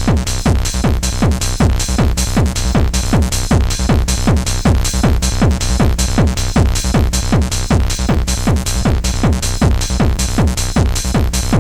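Fast bouncy techno / hardcore dance music, with a steady, pounding kick drum on every beat.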